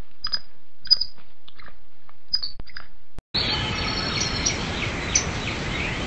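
Birds chirping: short, separate high chirps for about three seconds, then an abrupt switch to denser birdsong, with many overlapping calls over steady background noise.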